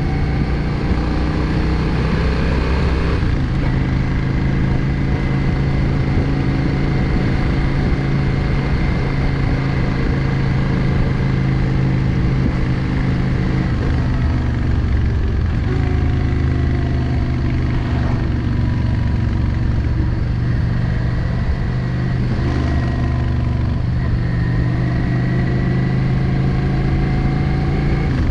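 Yamaha XVS650 Drag Star's air-cooled V-twin engine running while riding, its pitch rising and falling several times through the stretch.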